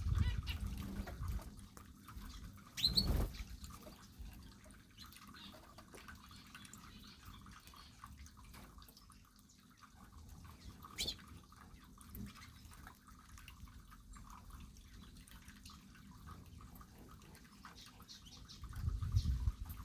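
Small aviary birds feeding: soft scattered clicks and ticks, with a short high chirp about three seconds in and a sharp click near the middle. A low rumble sits under the chirp and at the very start.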